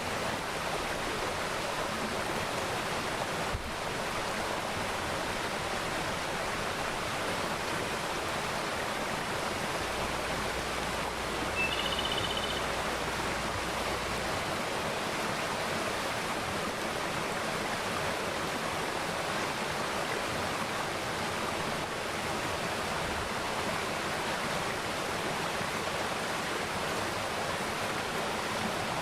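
A mountain valley stream flowing with a steady, even rush of water. About twelve seconds in, a bird gives one brief, high chirp.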